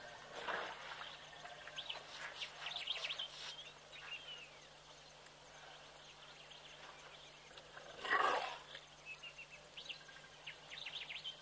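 Small birds chirping and calling on and off, with two short rushing noises, the louder one about eight seconds in, over a faint steady hum.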